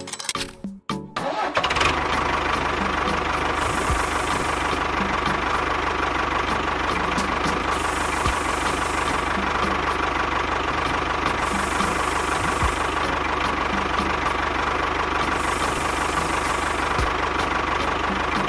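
A small motor running steadily with a whine. It starts about a second and a half in, with a faint knock repeating about every four seconds, like something turning once per cycle, and it cuts off near the end.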